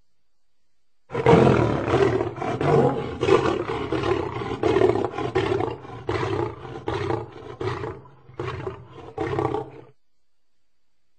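Lion roaring: a bout of repeated roaring grunts that starts abruptly and loudest about a second in, then weakens and spaces out until it stops near the end.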